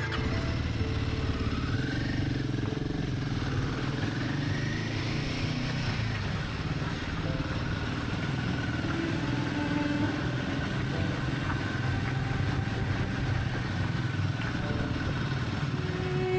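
Royal Enfield Himalayan's single-cylinder engine running as the motorcycle is ridden, with its pitch rising for a couple of seconds about three seconds in.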